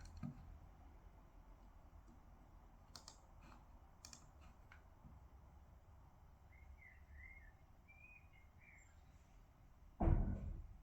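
Quiet desk work: a few scattered clicks and taps, as of a keyboard, mouse or pen, with faint short chirps in the middle. Near the end comes one loud, deep, muffled thump, the loudest sound here.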